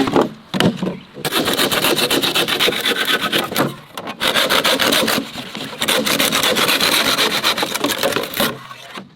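Rapid, rough rasping strokes, like something being scraped or sawn, in bouts of a second or two with short pauses between them.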